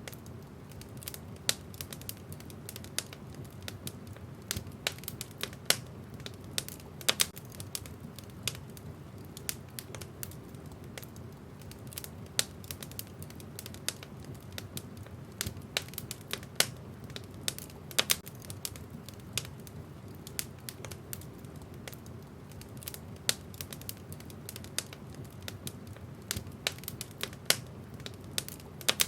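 Wood fire crackling, with frequent irregular sharp pops and snaps from the burning logs, some much louder than others, over a steady low rumble of the flames.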